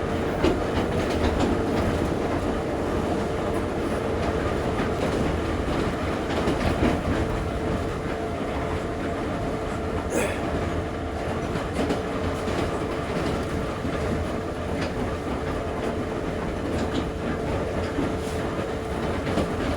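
Ezh3 metro train running through the tunnel, heard from inside the car: a steady rumble with a constant hum and the clickety-clack of the wheels over the rail joints. There is a brief high squeal about halfway through.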